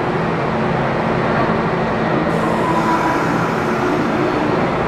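Kintetsu electric train running past, a steady loud rush of wheel and running noise with faint motor tones.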